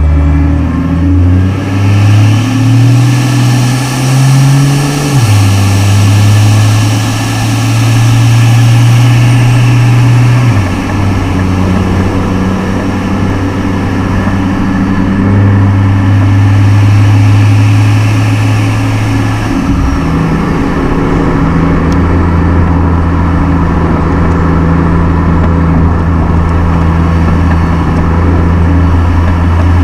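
Turbocharged inline-six car engine driving along. Its note rises over the first few seconds, then drops in steps about 5, 10 and 20 seconds in as the revs change, and holds steady between the drops.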